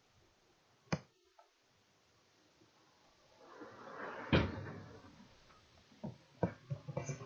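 A sharp click about a second in, a rising rustle ending in a loud knock, then a few more knocks near the end: things being handled in a small room.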